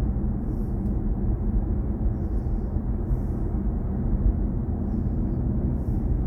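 Steady low road and tyre rumble inside the cabin of a moving BMW i4 M50, an electric car, with no engine note.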